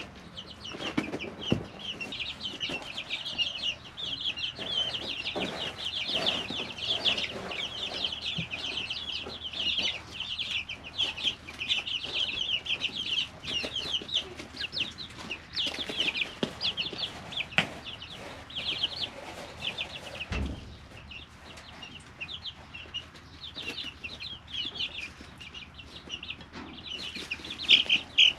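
A brooder of three-week-old chicks peeping continuously, many short high peeps overlapping, with scattered scratching and pecking clicks; the peeping thins out in the second half and swells again near the end.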